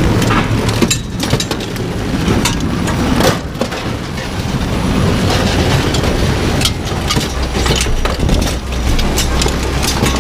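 Heavy rain coming down hard, a loud dense hiss with many sharp irregular taps and knocks through it.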